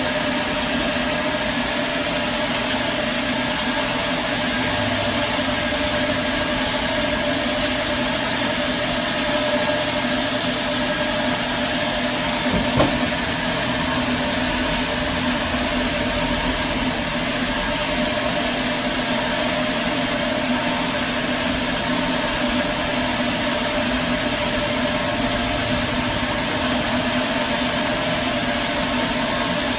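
Sawmill engine running steadily at an even pitch, with one sharp click about thirteen seconds in.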